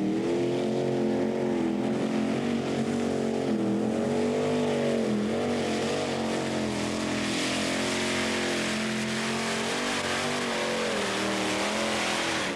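Competition pulling tractor's engine running hard and revving, its pitch rising and falling, with a rushing noise growing louder about seven seconds in; it cuts off suddenly at the end.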